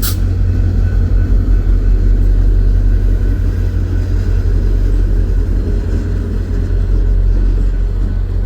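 VIA Rail diesel locomotive running close by, a loud, steady low rumble.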